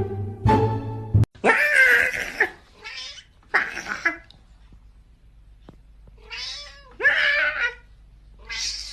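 Plucked-string music that cuts off about a second in, followed by a cat meowing loudly about six times in two bursts, the first call the longest.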